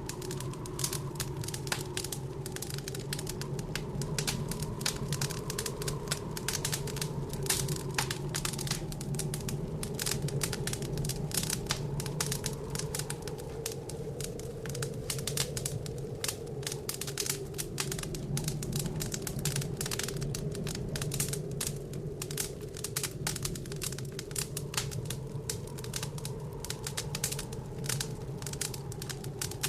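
Wood fire crackling in a fireplace, a constant stream of sharp snaps and pops, over the steady low moan of blizzard wind.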